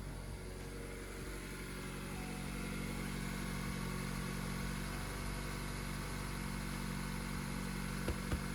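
Mazda CX-3's 2.0 SkyActiv-G four-cylinder petrol engine idling steadily on freshly fitted spark plugs, with a few sharp clicks near the end.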